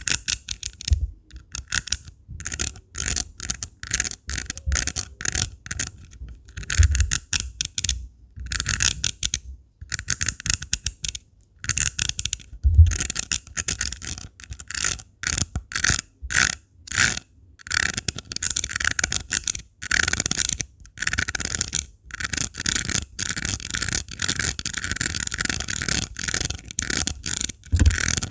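Rhinestones being scratched in quick, uneven runs of short strokes: a bright, raspy scratching with brief pauses between runs and a few soft low bumps.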